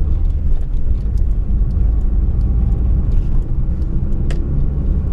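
Fiat Uno driving, a steady low rumble of engine and road noise, with one sharp click about four seconds in.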